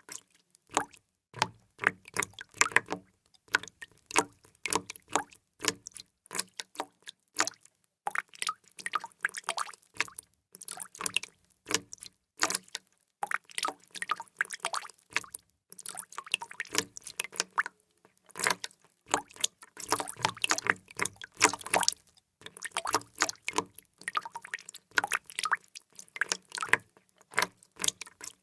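Water drops falling and plopping into water, many short irregular drips and splashes, several a second with brief pauses.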